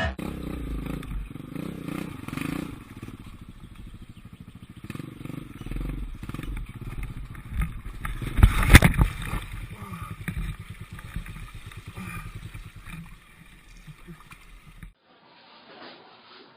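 Motorcycle engine running with a low rumble, and one loud crash about nine seconds in.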